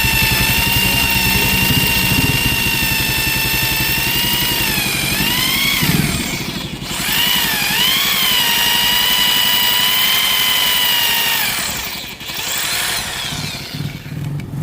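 Electric hand drill running with a steady motor whine, its pitch dipping and wavering about halfway as it bogs under load, then dropping away and stuttering near the end. It is drilling into a rusted, broken exhaust stud in the engine's cylinder head.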